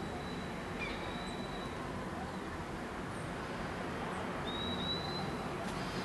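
Steady outdoor background noise with a low hum, and a few short, thin high whistles of small birds: one about half a second in and another near five seconds.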